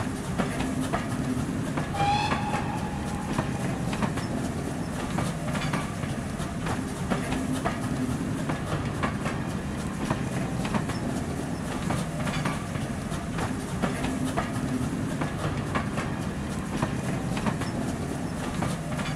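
Train running past with a steady rumble and a rhythmic clickety-clack of wheels over rail joints. A brief whistle sounds about two seconds in.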